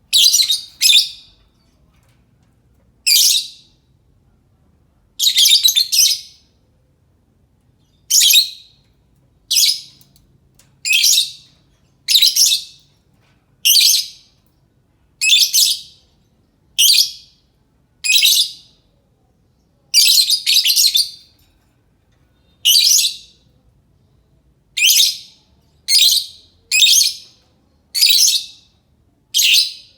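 Lovebird giving harsh, shrill chirping calls, short single or doubled calls repeated about every second and a half.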